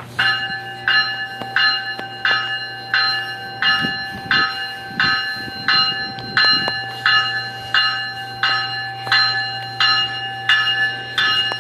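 GO Transit locomotive bell ringing steadily as the train gets ready to depart, about three strikes every two seconds, over a steady hum and whine from the train.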